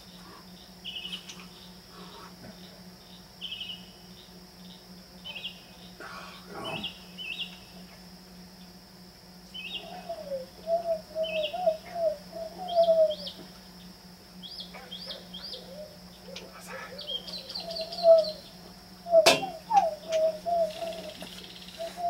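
A bird whistling and chirping in repeated short phrases of high chirps and rising notes, with lower warbling runs in the second half, over a steady trill of crickets. A single sharp knock comes about nineteen seconds in.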